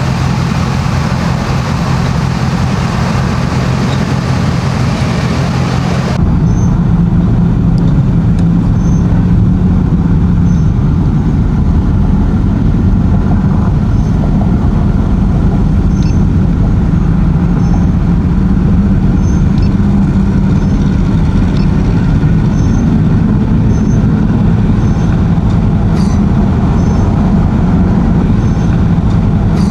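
Boat engines running steadily with a low rumble; about six seconds in the sound changes abruptly to a heavier, deeper rumble.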